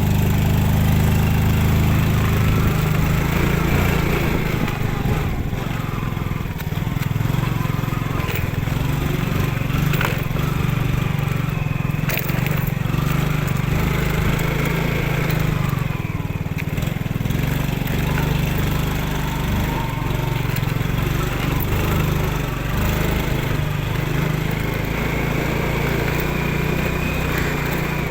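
Yamaha Finn motorcycle's small single-cylinder engine running continuously under way, its pitch rising and falling with the throttle.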